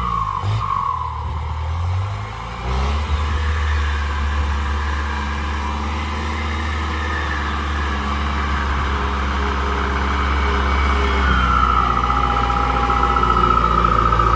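ZT 155 tractor engine running. Its pitch shifts in the first couple of seconds, then it settles into a steady low drone. A high whine comes in about eleven seconds in, and the sound grows slowly louder toward the end.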